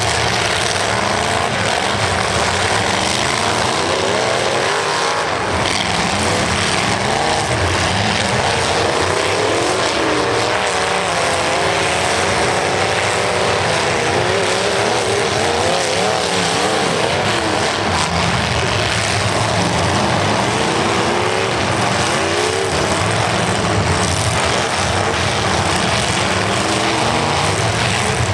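Several demolition derby cars' engines revving hard at once in a continual loud din, their pitches rising and falling as the drivers gun and back off.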